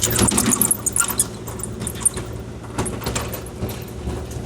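Kubota KX040-4 mini excavator's diesel engine running steadily, with many sharp clatters and rattles over it, thickest in the first second.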